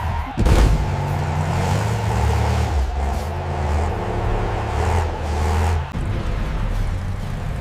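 Cartoon monster truck engine sound effect, starting with a sudden loud burst about half a second in and then running and revving, its pitch stepping up and down.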